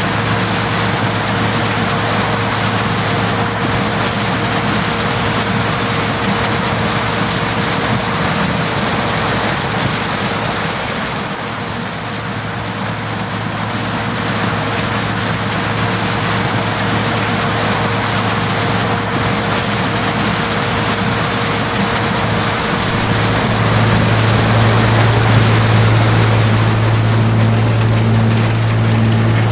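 John Deere 105 combine running as it harvests corn: a steady engine hum over a dense mechanical rush. The hum grows louder and stronger near the end.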